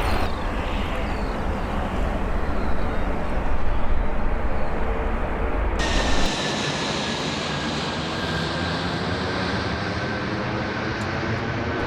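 Jet aircraft engines running with a steady roar. About six seconds in the sound changes abruptly to a thinner roar with a steady high whine that sinks slightly in pitch.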